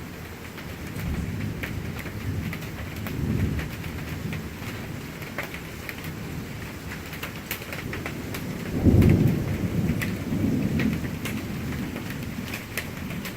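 Thunderstorm: steady rain falling with scattered drop hits, and low thunder rumbling. A louder peal of thunder breaks about nine seconds in and rolls on for a couple of seconds.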